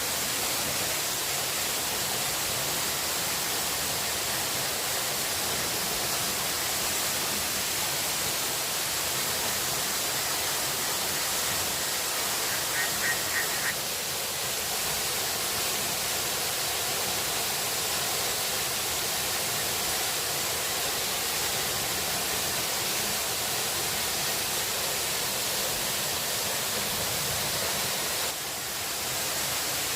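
Steady, even rushing of water, with a short burst of high chirping about thirteen seconds in.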